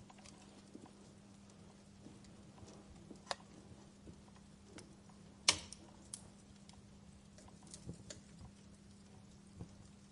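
Wood fire crackling in a fireplace: sparse, irregular pops and snaps, the loudest about halfway through, over a faint steady low hum.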